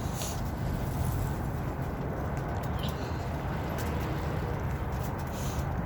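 Steady low outdoor rumble with a hiss, and a few faint ticks now and then.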